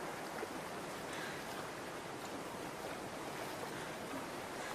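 Running water, a steady rush.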